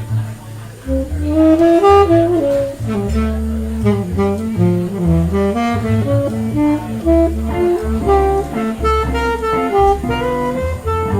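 Instrumental jazz break: a saxophone plays a flowing melody over a bass line.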